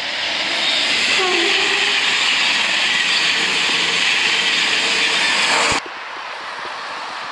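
Express passenger train passing at speed: a loud rushing of wheels on rail that swells as it nears and holds, then cuts off suddenly about six seconds in.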